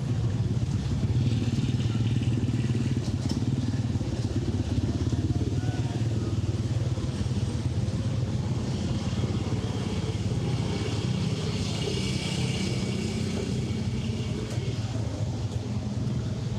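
Road traffic with a steady low engine hum throughout, as from motor vehicles running close by, and some hiss rising and falling in the middle.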